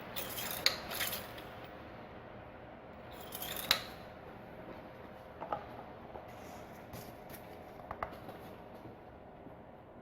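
Hand work with metal tools and parts: short clicks and scraping sounds, a few close together at the start, the loudest about three and a half seconds in, then lighter single clicks.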